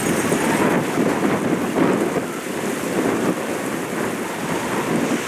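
Choppy waves washing and breaking against the shore, with wind rumbling on the microphone as a steady roar.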